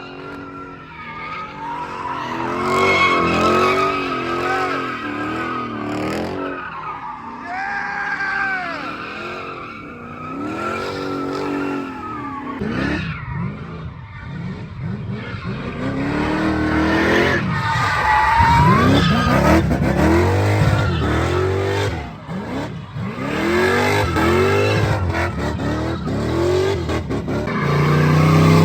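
Car engines revving up and down again and again, with tires squealing and skidding, as in burnouts and donuts.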